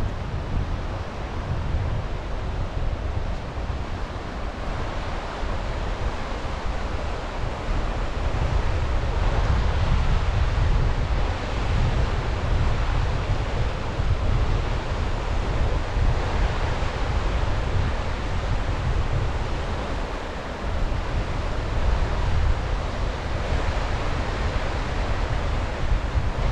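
Sea waves washing onto the shore, the surf rising and easing in swells, with wind buffeting the microphone as a low rumble.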